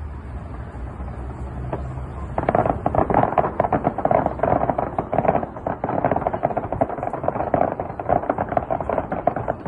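Fireworks crackling in a dense, rapid stream of sharp pops. They start about two seconds in after a low rumble and cut off just before the end.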